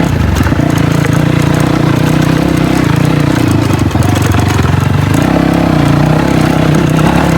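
Dirt bike engine running at low revs, its pitch wavering in the middle and settling steady after about five seconds.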